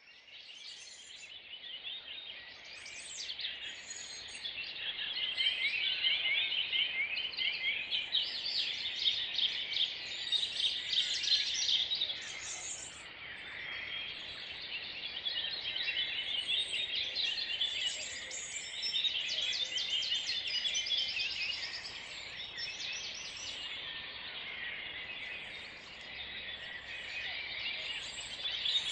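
A chorus of many songbirds singing at once: dense, overlapping trills, chirps and whistles. It fades in over the first few seconds, then continues at a fairly even level.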